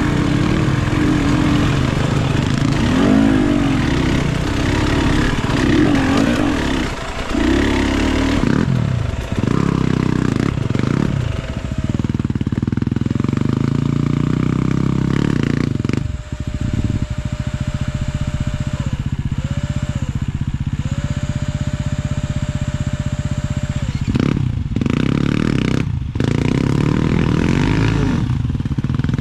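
Enduro dirt bike engine revving up and down through the first few seconds, then running at steadier revs, with a few brief drops in throttle later on.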